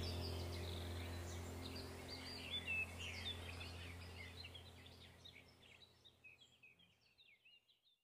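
Birds chirping in many quick short calls over a low steady hum, the whole sound fading out gradually to silence near the end.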